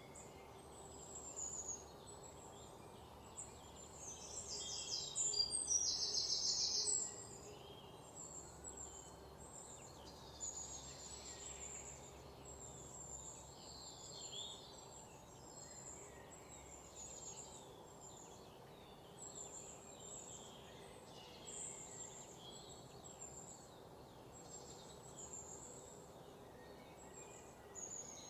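Outdoor birdsong ambience: many birds chirping in short high calls over a faint steady background hiss. A louder, rapid buzzy trill stands out for about three seconds near the start.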